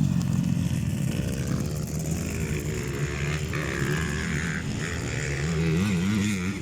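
Several motocross bike engines running together, idling and revving unevenly, their pitch rising and falling.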